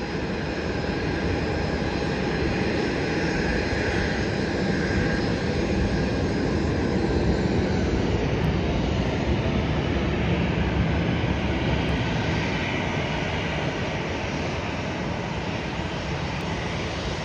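Boeing 737 MAX 9 airliner's CFM LEAP-1B turbofans heard during landing: a steady jet roar with a faint drifting whine, swelling a little in the middle and easing off toward the end.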